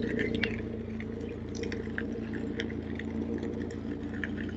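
Steady hum of an electric unicycle's hub motor at constant speed, with wind rumble on the microphone. Scattered short high chirps, like small birds, come and go over it.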